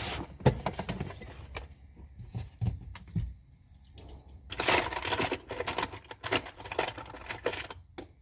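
Small metal hardware and tools being handled: a few knocks and thumps, then, from about halfway, a stretch of quick metallic clinking and rattling.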